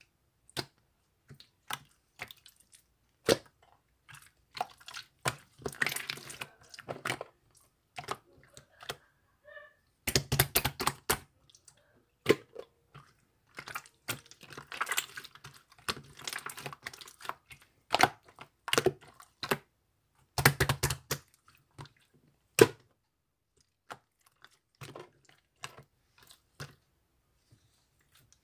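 Clear slime being pressed and squeezed by hand, giving sharp popping clicks and bursts of crackling in clusters, with short quiet gaps between.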